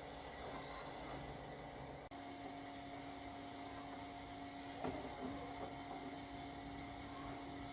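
Steady electrical hum over a faint hiss. A clearer two-note hum sets in about two seconds in and holds steady, with a small knock near the five-second mark.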